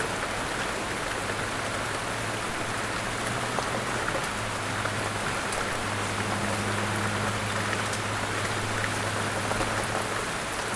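Steady rain falling, an even patter with scattered individual drop ticks, over a faint low hum.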